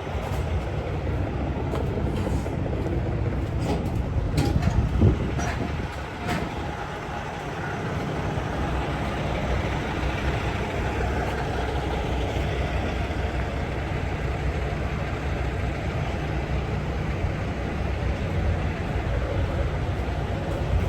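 Steady low rumble of a vehicle engine running, with a few sharp knocks and clatters about four to six seconds in.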